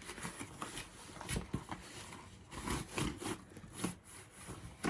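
Faint rustling and scattered clicks of packaging being handled.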